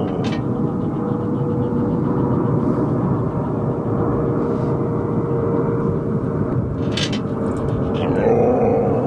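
A steady low rumble of background noise with a faint steady hum through it, and a few short sharp sounds about seven seconds in.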